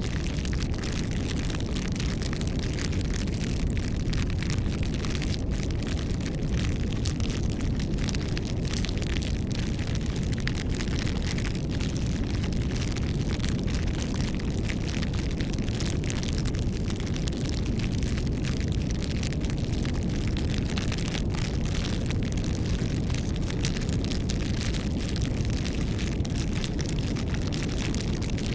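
Wood fire burning: a steady low rumble of flames with scattered small crackles and pops from the burning wood.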